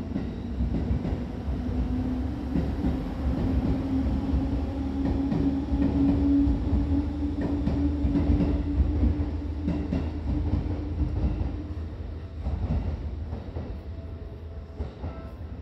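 Electric train pulling out past a station platform: a low rumble of wheels on rail with a steady motor hum that climbs slightly in pitch as it gathers speed. The hum stops about twelve seconds in and the rumble dies down.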